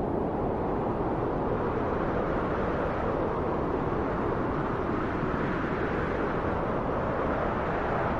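Steady wind blowing: an even, low rushing noise without gusts or breaks.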